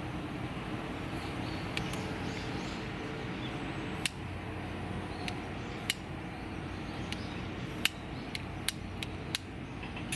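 Campfire crackling with scattered sharp pops, coming more often in the second half, from wood that is suspected to be still damp and not fully dried. A steady low hum runs underneath.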